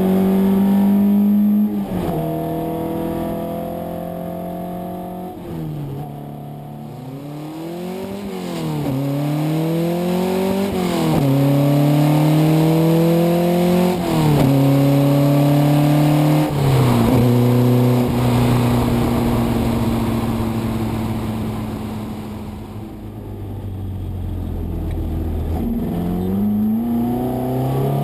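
A Fiat X1/9 Abarth prototype's 2.0-litre twin-cam four-cylinder engine is pulling hard through the gears, its pitch climbing and then dropping at each upshift, several times over. In the middle the revs fall away with quick throttle blips on the downshifts. Later it holds a steadier note before pulling up again near the end.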